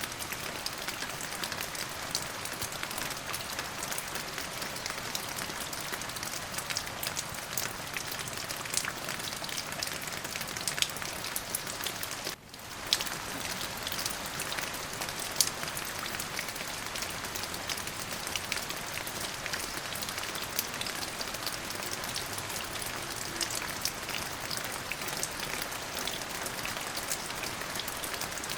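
Steady rain falling on a surface, an even hiss with many separate drops clicking through it. About halfway through, the sound briefly dips and swells straight back.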